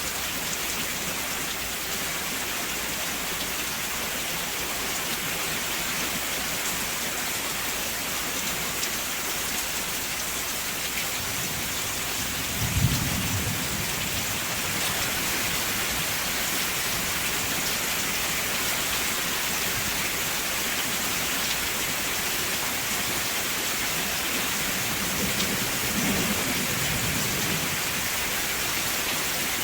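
Steady heavy rain falling, with a short thunderclap about halfway through and a softer roll of thunder near the end.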